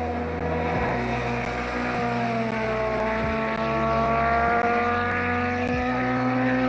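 Race car engine running at high, steady revs under load on a hill-climb course. Its pitch sags slightly about two to three seconds in, then climbs back.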